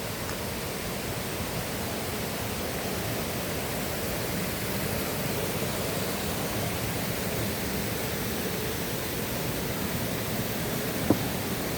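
Steady rush of flowing water from a river and waterfall, an even hiss with no break. A single sharp click sounds near the end.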